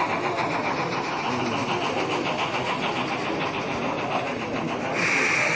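A train running steadily. A loud hiss starts near the end.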